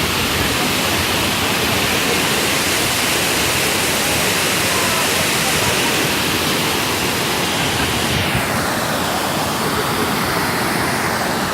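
Large waterfall rushing steadily, a constant loud wash of falling water, the river running high after days of rain. About eight seconds in, the higher hiss dulls slightly.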